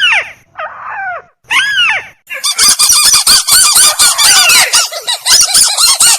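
Bird-lure recording of burung tikusan (crake) calls. A few loud downward-sliding calls come first, then from about two seconds in a dense run of rapid, overlapping repeated calls.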